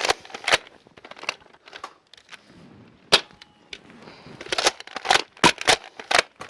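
Nerf dart blasters firing: a series of sharp pops, a few spread out at first, then coming in a quick run of about three a second in the second half.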